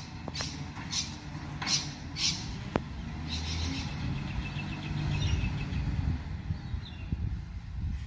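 A heavy truck's diesel engine running low and steady, with several short squawking bird calls over it in the first few seconds and a single sharp click partway through.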